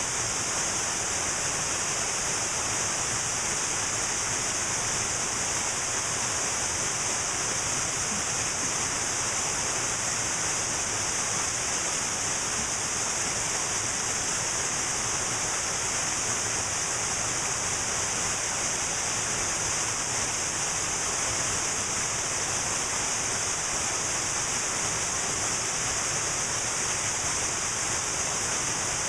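Cascading mountain waterfall, a steady even rush of falling water.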